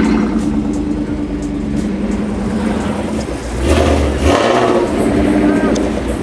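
Car engine running steadily, with a louder surge of engine noise about three and a half seconds in that lasts under a second.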